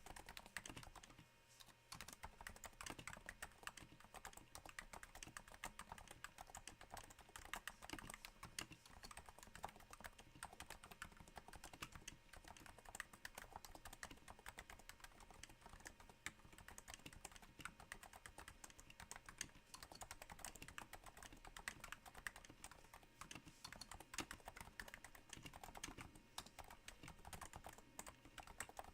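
Steady typing on a Cooler Master Novatouch keyboard with Topre switches damped by Hypersphere silencing rings, set on a thin desk mat: a dense patter of soft keystrokes, with a short pause about a second and a half in.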